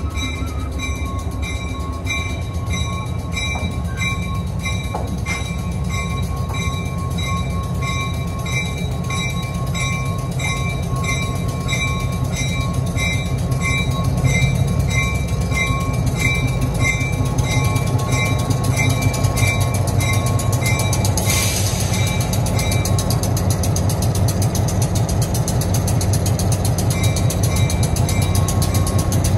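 Heritage excursion train running on the rails, heard from aboard: a steady low rumble that grows a little louder about halfway. A faint high tone pulses about one and a half times a second, and a brief hiss comes about three-quarters through.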